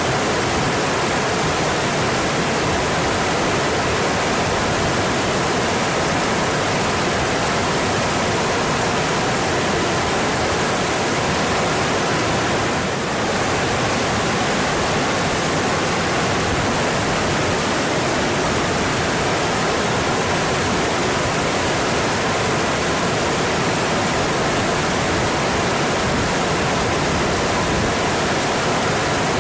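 Mountain stream rushing over rocks, a loud, steady, even rush of water.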